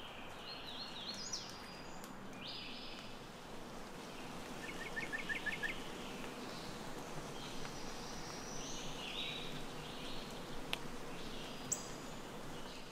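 Several songbirds singing: short, varied phrases, with a quick trill of about six notes about five seconds in, over a steady background hiss.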